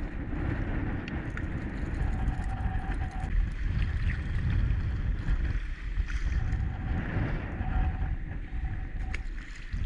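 Strong wind buffeting the microphone, a steady rumble with small ticks and a faint on-and-off whine over it.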